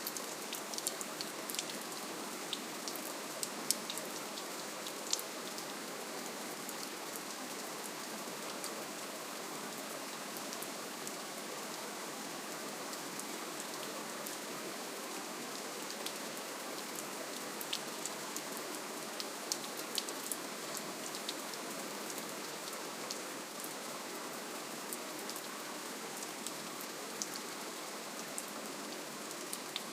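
Steady gentle rain, with individual drops ticking sharply on a surface now and then.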